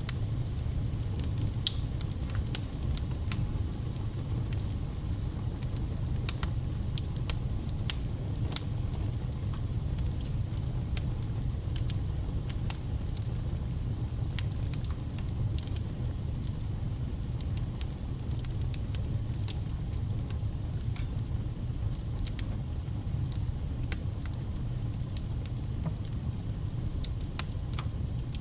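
Wood campfire burning: a steady low rumble of flames with frequent irregular sharp crackles and pops from the burning logs.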